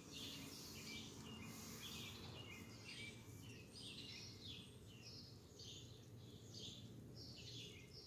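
Birds chirping faintly: short, high chirps repeated about twice a second, over a low, steady background rumble.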